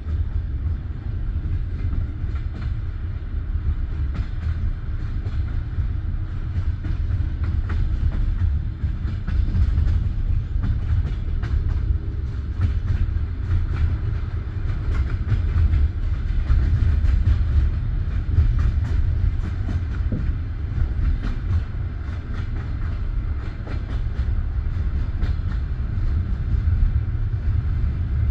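Railway train wheels rumbling steadily on the rails, with faint, irregular clicks of wheel-on-rail clatter.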